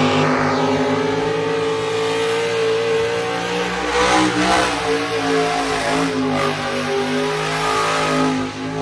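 A car engine held at high revs, running loud and fairly steady, with slight dips in pitch partway through.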